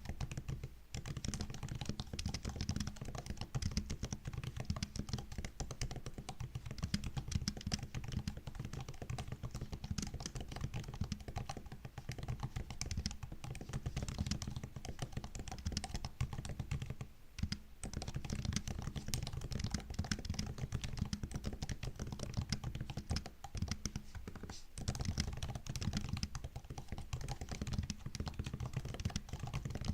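Fast, continuous typing on a MacBook laptop keyboard: rapid key clicks with a few brief pauses, one about 17 seconds in.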